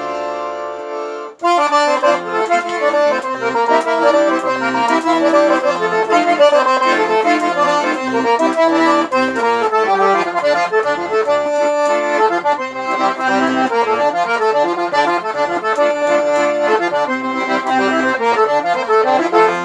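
Accordion (sanfona) playing an instrumental forró passage. A held chord gives way, after a brief break about a second in, to a fast run of melody notes over bass notes.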